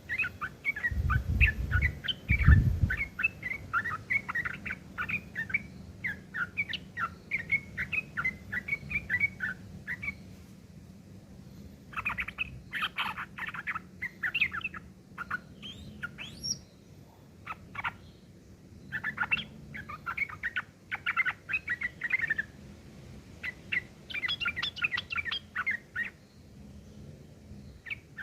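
Yellow-vented bulbuls (trucukan) chattering harshly in rapid runs of short notes, the rough fighting chatter, in phrases of a few seconds with short pauses between. A couple of low thuds come about one to three seconds in.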